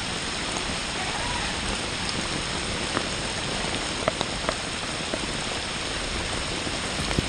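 Rain falling steadily, with a few louder drops ticking close by.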